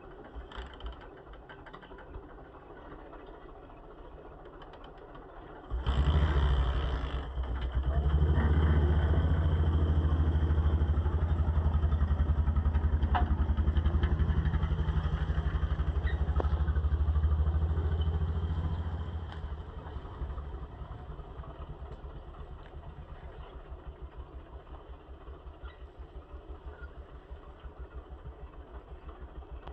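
Tractor engine idling, then speeding up sharply about six seconds in and running loud for some thirteen seconds before dropping back to an even, pulsing idle.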